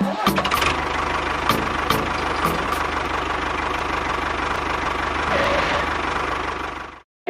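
An engine running steadily with a fast, even chugging beat, a few clicks and knocks on top. It cuts off suddenly near the end.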